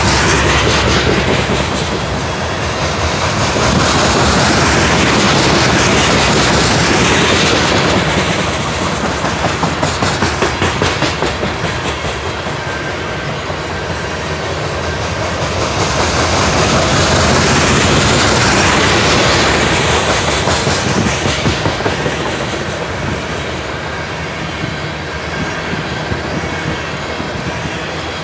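Coal hopper cars of a long freight train rolling past, their steel wheels clacking steadily over the rail joints. The rumble swells and eases twice.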